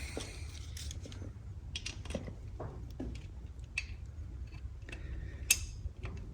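Scattered small clicks and taps of hand tools and engine parts being handled during cam-belt work on a motorcycle engine, the sharpest about five and a half seconds in, over a steady low hum.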